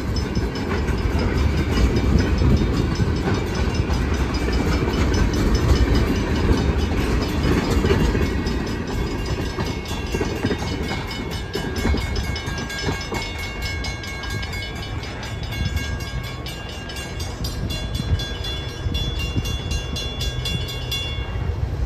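Freight train rolling past with a heavy rumble of wheels on rail, easing after about eight seconds into a steady rhythmic clicking of wheels over rail joints with faint thin squeals from the wheels. The sound cuts off abruptly near the end.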